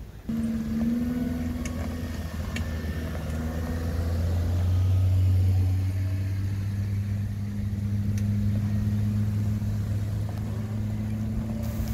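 Suzuki Jimny engines running at low, steady revs as the small 4x4s crawl past on gravel, one constant hum with a few faint clicks.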